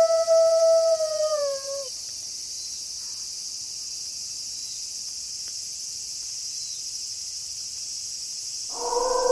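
A wolf's long howl held on one pitch, then sliding down and fading out about two seconds in. A steady high chorus of crickets runs underneath. A second, lower howl starts near the end.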